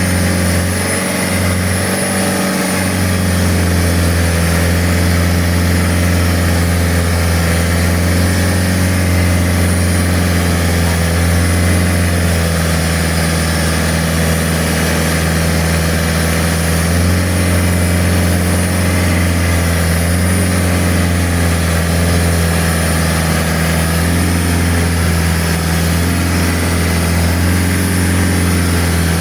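Boat engine running steadily under way, a loud, even drone with a constant hiss over it.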